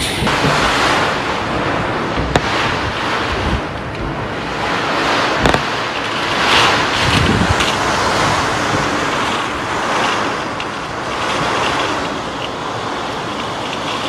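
Cyclone storm noise: strong wind and water making a dense hiss that swells and eases in gusts, with two short knocks about two and five seconds in.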